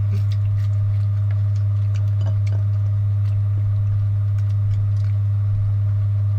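A loud, steady low hum, with scattered faint clicks and taps from food and containers being handled and eaten.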